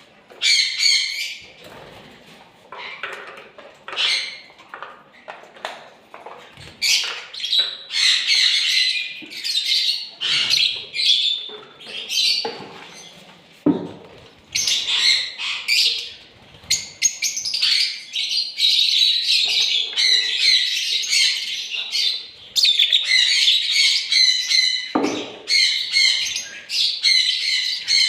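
Lovebird chicks calling: repeated bouts of high, rapid chirping and squawking with short pauses between, the calls coming more densely in the second half.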